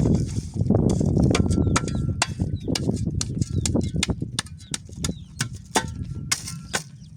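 Irregular sharp snaps and clicks, several a second, over a low rustling rumble that is loudest in the first few seconds and fades toward the end.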